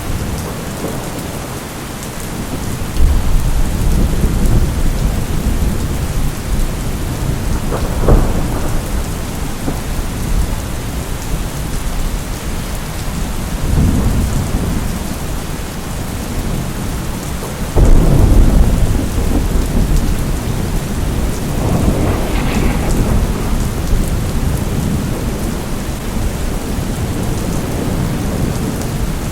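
Thunderstorm: steady heavy rain with several low rolls of thunder, one starting a few seconds in and the loudest a little past halfway.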